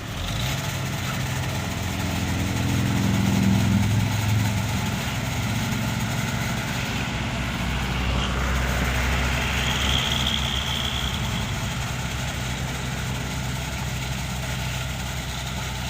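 Heavy diesel engine of road-construction machinery running steadily, growing louder about three to four seconds in, with a brief high whine near ten seconds.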